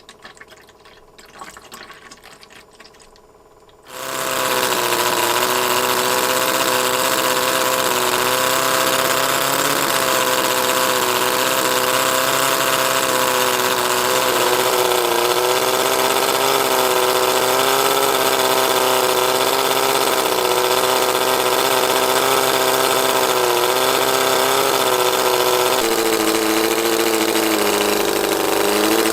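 Miniature 17.5cc four-cylinder OHV model engine: a few faint clicks, then about four seconds in it fires up and runs steadily at a high, slightly wavering pitch. Near the end its speed drops and the pitch steps down.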